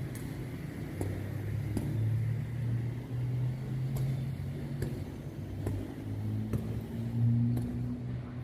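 A motor running with a steady low hum that climbs a little in pitch near the end, with scattered clicks and knocks over it.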